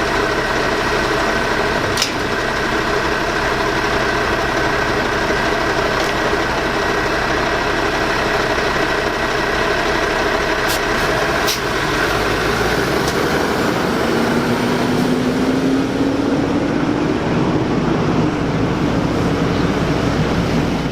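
Maxon MSL garbage truck's engine running steadily, with a few sharp knocks. In the second half the low rumble changes and a tone rises slowly for several seconds.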